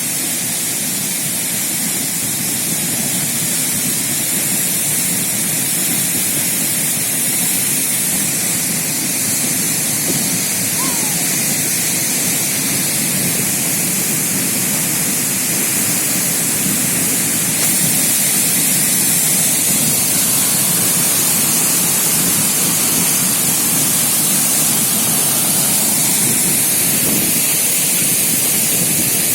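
Sindang Gila waterfall pouring into its pool: a steady, unbroken rush of falling water.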